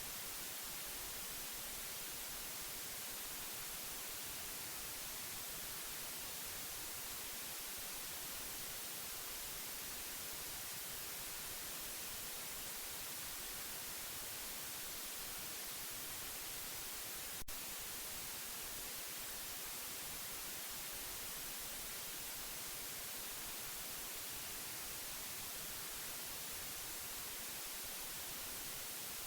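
Steady white noise: an even, unchanging hiss heavy in the high frequencies, played as a baby sleep aid. A single short click breaks it about seventeen seconds in.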